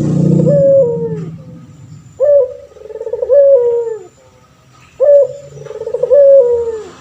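Male puter pelung dove cooing: the end of one call, then two long phrases of several stepped notes, each ending in a falling note.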